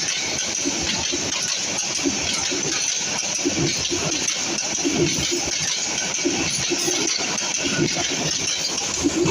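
Passing train cars rattling and clattering, with dense irregular knocks over a steady hiss.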